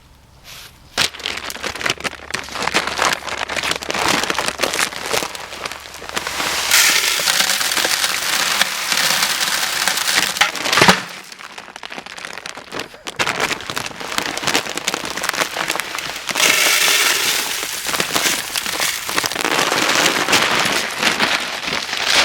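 Bird seed poured into a pail, a dense pattering of many small grains striking and spilling. It comes in two heavier pours, the first stopping suddenly about halfway through.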